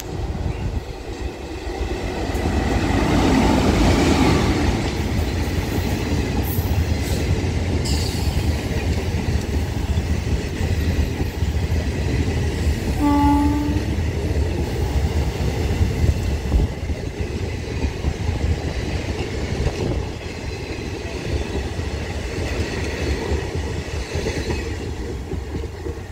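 Nagercoil–Kottayam passenger train running past on the rails, its wheel noise building up in the first few seconds and staying loud. One short horn blast comes about halfway through.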